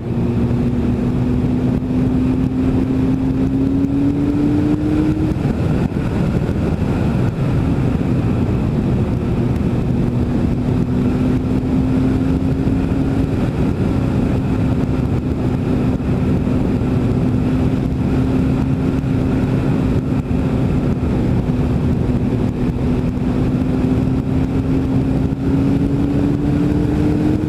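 Yamaha FZS1000 Fazer's inline-four engine running at a steady cruise on the road, with heavy wind noise. The engine pitch rises a little about five seconds in and again near the end.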